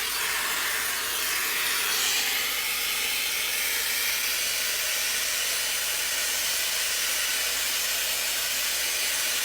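Shark hair dryer running, a steady rush of blown air as it dries hair.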